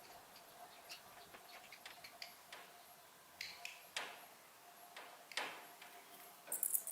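Faint scattered clicks and rustles with a few soft high chirps, from birds moving about a nest, over a faint steady tone.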